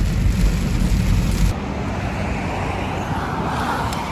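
Road traffic noise with wind buffeting the microphone: a heavy low rumble that cuts off abruptly about a second and a half in, giving way to a lighter, even road noise that swells slightly near the end.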